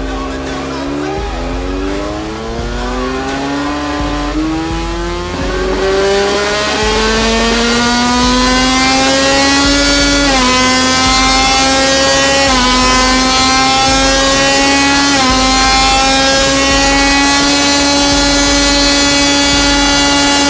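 KTM RC16 MotoGP race engine revving up and held at high revs. Its pitch climbs steadily for several seconds, then dips briefly three times, about two and a half seconds apart, like upshifts under full throttle, and falls away at the very end.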